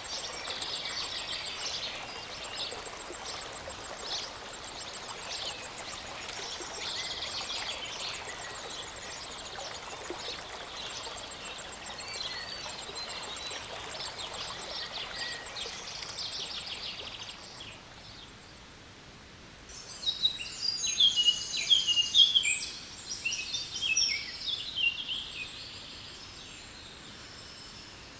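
Wild birds chirping and singing over the steady rush of a small mountain stream. Near the middle the rush drops away, then a burst of quick, loud bird song follows for about five seconds, the loudest sound here.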